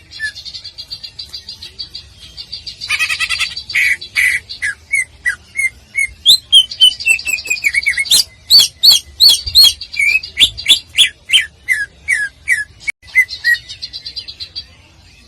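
Greater green leafbird (cucak ijo) singing a fast, varied song of quick chirps and whistles. A harsh rattling burst comes about three seconds in, then a run of sharp, rapid notes, easing to a faint trill near the end.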